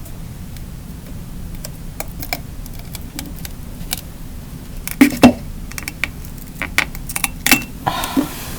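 Scattered sharp clicks and knocks of small hard objects being handled, with two loud knocks about five seconds in and a quick run of clicks near the end.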